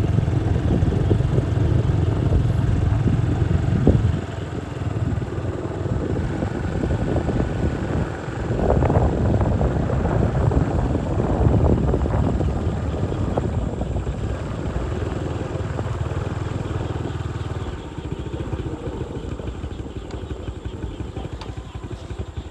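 Motorcycle engine running on the move, with wind rushing over the microphone. The low rumble dips briefly about four seconds in and again around eight seconds, and eases off near the end.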